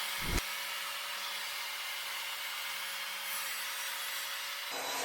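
Evolution R255SMS sliding mitre saw running at full speed and cutting through MDF, a steady motor tone under the sawing noise. A short knock comes just after the start, and the sound changes abruptly near the end.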